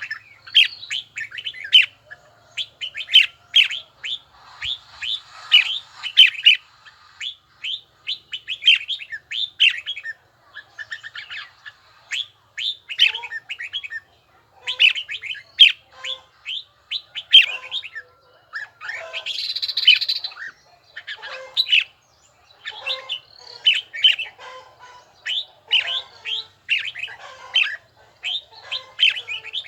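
Red-whiskered bulbul singing: phrase after phrase of quick, clear chirping notes with short pauses between, and a brief scratchy burst about two-thirds of the way through.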